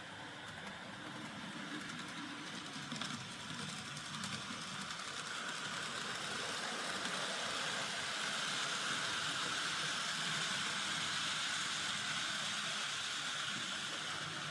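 N gauge model train, a Class 60 locomotive hauling open wagons, running on the track: a steady whirring, rattling rolling noise that grows louder over the first half as the train comes nearer, then holds level.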